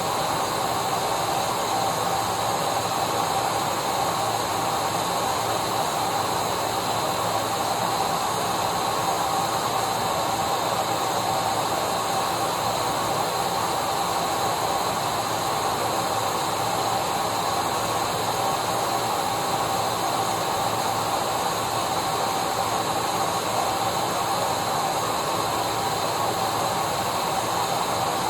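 Vacuum cleaner motor running steadily: a continuous rushing noise with a constant high whine that never changes pitch or level.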